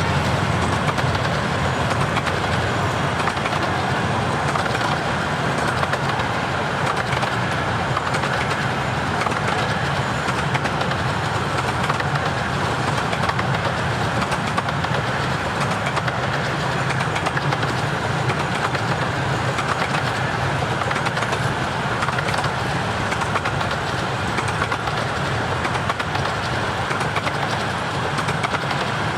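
A long rake of 15-inch-gauge miniature railway coaches rolling steadily past, with the continuous running noise of wheels on the rails.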